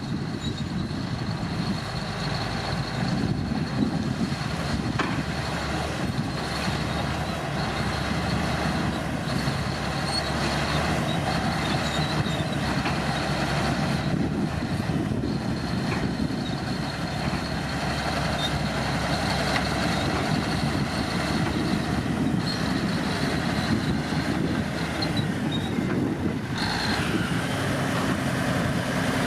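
Komatsu D65P bulldozer's diesel engine running steadily, with a thin high whine over the engine noise throughout.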